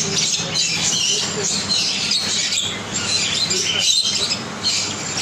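A flock of parrots chirping and squawking together in a dense, unbroken chatter.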